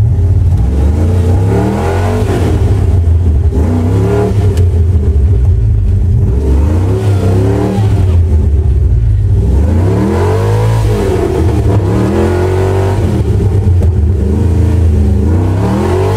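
Vehicle engine revved up and down again and again over a steady low rumble, about six rising-and-falling surges, heard from inside the cab while working to get free of the mud.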